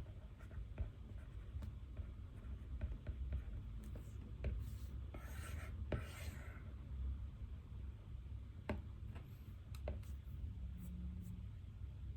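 Pen writing on paper: short scratching strokes and light taps, with a longer scratchy stretch about five to six seconds in, over a low steady room hum.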